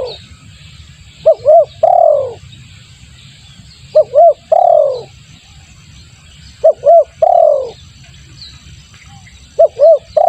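Spotted dove (tekukur) cooing, a repeated lure call. Each phrase is two short coos followed by a longer falling coo, repeated about every two and a half to three seconds, with the last phrase starting just before the end. Faint chirps of other small birds can be heard behind it.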